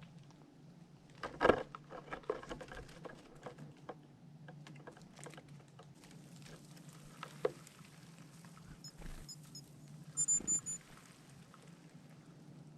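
Squirrel scrabbling and tapping about a feeder: a run of light scattered taps and patters with one sharper knock about a second and a half in. A few short high chirps come near the end.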